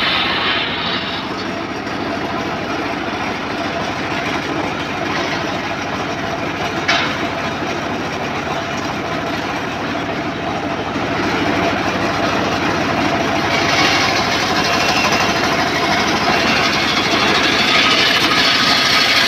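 Homemade circular saw machine running steadily while sawing teak timber. It gets louder and brighter from about eleven seconds in, with one sharp knock near seven seconds.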